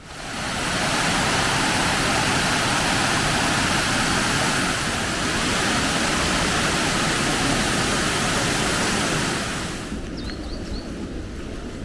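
Waterfall: a loud, steady rush of falling water that cuts off about ten seconds in.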